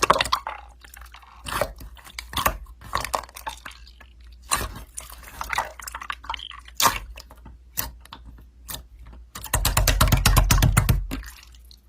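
Slime being handled by hand, making irregular sticky clicks and pops, with a dense run of rapid crackling clicks near the end.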